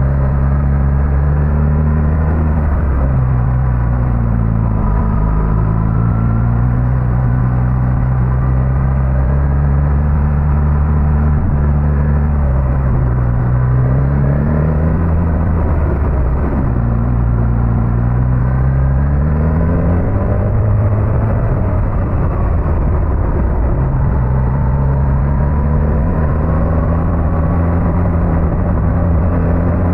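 Suzuki GSX-S1000GT's inline-four engine pulling the bike along, its pitch rising under throttle and dropping as the rider eases off or shifts several times, heard muffled from the rider's camera.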